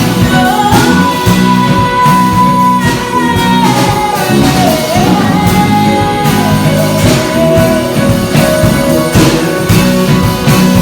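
A church band performing a Christmas hymn: a long held melody line that steps from note to note over a full accompaniment with a steady drum beat.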